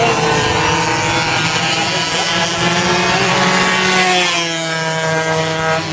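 Two-stroke 120cc racing motorcycle engines running at high revs as bikes pass on the circuit, with a fresh engine note coming close and shifting in pitch about four seconds in.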